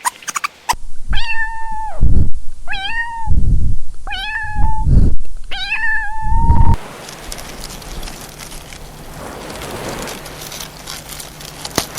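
A cat meowing four times, about one short meow a second. A steady background hiss follows.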